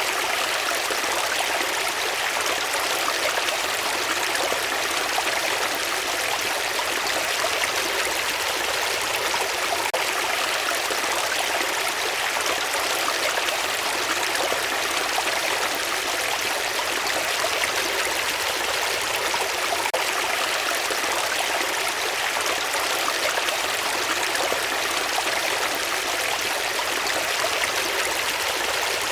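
Water flowing steadily, an even, unbroken rushing with no changes in level.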